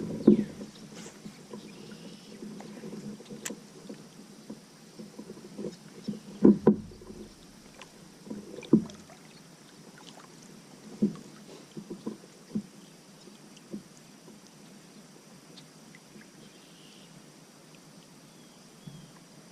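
Scattered knocks and bumps on a plastic fishing kayak, the loudest a few thumps in the first half, over faint water and wind noise.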